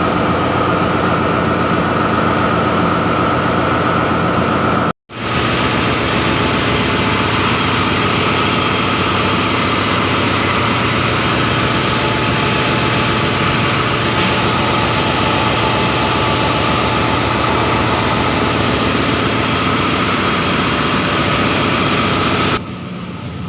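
Loud, steady running of heavy ship engine-room machinery, with steady tones over a dense low rumble. It cuts out for a moment about five seconds in and becomes quieter near the end.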